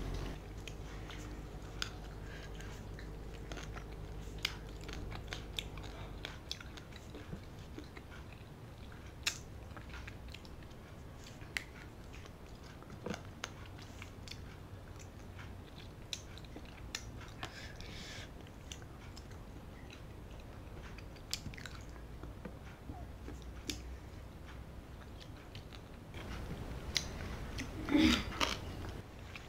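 Close-miked chewing and wet mouth sounds of someone eating rice and curry with their hands: scattered small smacks and clicks, with a louder run of them near the end. A low steady hum underneath stops about six seconds in.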